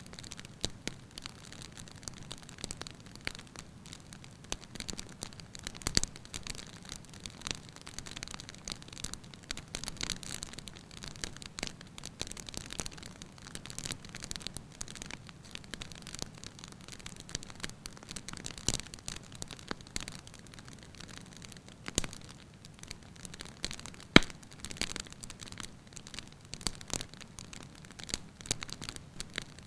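Wood fire in a fireplace, crackling steadily with a scatter of sharper pops, the loudest about a quarter of the way in and a few more later on.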